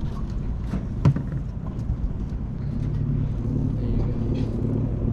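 Boat motor idling with a steady low rumble, and a sharp knock about a second in.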